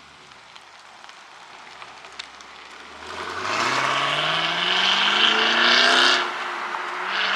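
A car engine accelerating hard. Quiet at first, then loud from about three seconds in, its pitch climbing steadily for about three seconds. It drops off sharply and then rises again near the end, like a gear change.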